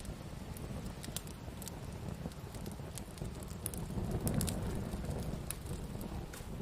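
Campfire burning, the wood crackling with scattered sharp pops over a low steady rumble.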